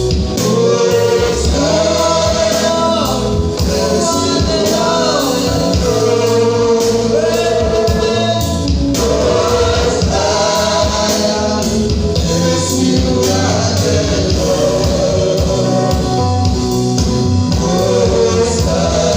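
Gospel worship music: voices singing together in choir style over a steady beat.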